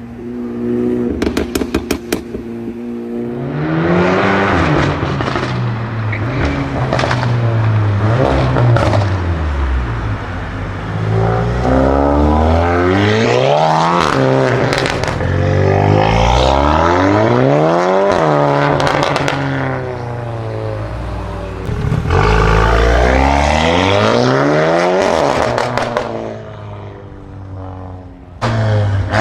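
Volkswagen Golf Mk8 hot hatch engine and exhaust accelerating hard through the gears. The pitch climbs steadily and drops sharply at each shift, over several pulls, with a quick run of sharp crackles about a second in.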